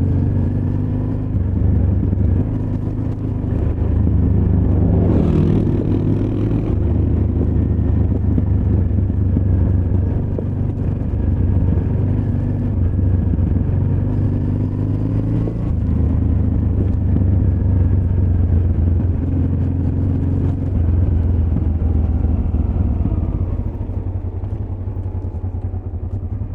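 Honda Transalp XL600V's 583 cc V-twin engine running while the motorcycle is ridden, its note rising and falling with the throttle, growing quieter near the end.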